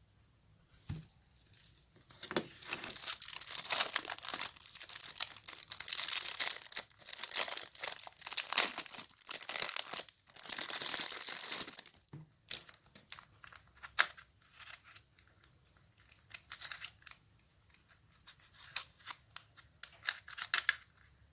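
Packaging being torn open and crinkled by hand: about ten seconds of dense tearing and rustling, then scattered crinkles and clicks.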